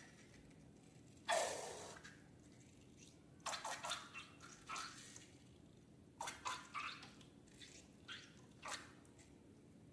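Wet, sticky clicks and squelches of slime being handled and mixed, coming in short clusters. There is a sudden louder burst about a second in that fades quickly.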